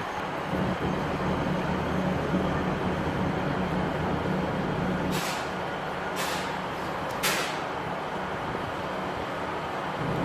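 Diesel train engine running steadily with a low drone, with three short sharp hisses of air released from the train's air brakes about five, six and seven seconds in.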